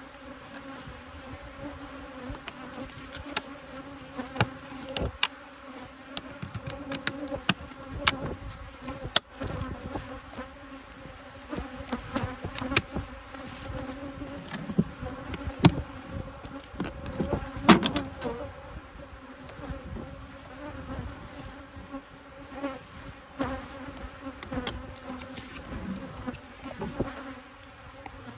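Honeybees buzzing in a steady hum around an open hive, with scattered knocks and clicks of hive boxes and tools being handled, the loudest cluster about two-thirds of the way through.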